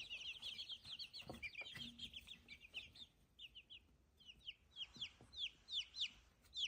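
Young chickens peeping: many short, high, falling peeps, dense and overlapping at first, thinning to scattered single peeps after about three seconds.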